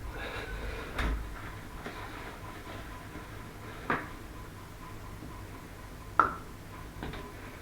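A few sharp clicks and knocks of hard objects being handled or set down, four in all, the loudest just after six seconds in.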